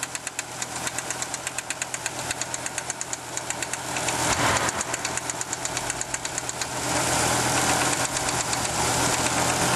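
1987 Audi 4000S KX five-cylinder engine running with a rapid, regular ticking in time with the engine, which the owner takes for a bad intermittent lifter tick. About two-thirds of the way in, the ticks become less distinct under a louder, steady running noise.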